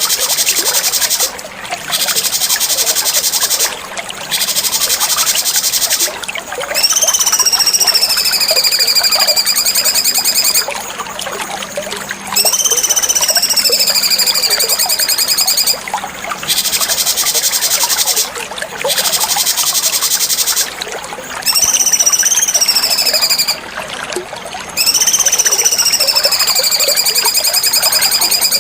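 Cucak cungkok song: bouts of rapid, very high buzzing trills alternating with long slurred whistles that rise and then fall, repeated in phrases with short pauses between them.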